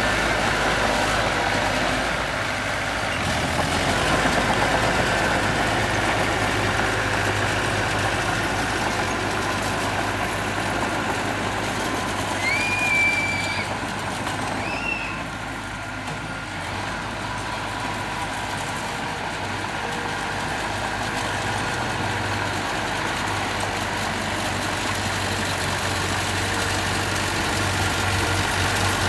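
Engine of heavy earthmoving machinery running steadily, with two short high squeals about halfway through.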